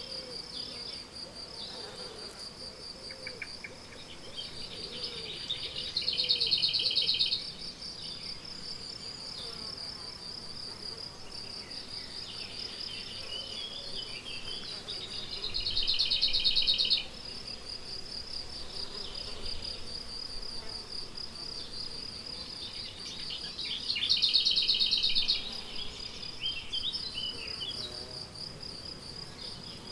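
Meadow crickets chirring in a steady high-pitched chorus, with three louder buzzy, pulsed phrases about nine seconds apart. Scattered bird calls and song sound between them.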